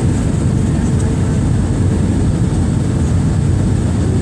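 Airbus A320 cabin noise heard from a passenger seat: a steady, loud rumble of the jet engines and airflow, with a faint high steady whine above it.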